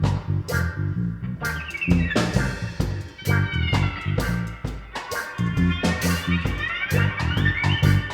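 A band playing an instrumental passage: a repeating bass guitar line under regular drum kit hits, with a higher guitar lead line that slides between notes from about two seconds in.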